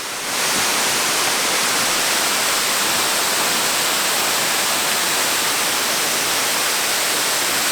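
Margaret Falls, a partially frozen waterfall, rushing steadily and loudly, coming up within the first half second and holding even.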